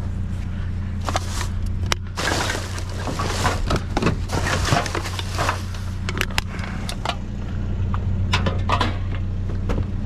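A vehicle engine idling steadily, with clattering and knocking of junk being handled and shifted, busiest from about two to six seconds in.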